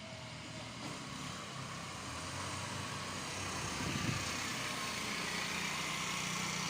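Motorcycle engine running on the move, with wind and road noise, getting gradually louder.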